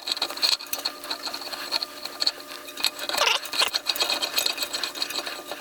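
Metal shower fitting being screwed onto its Teflon-taped threads, a continuous rapid rattling and scraping of metal on metal.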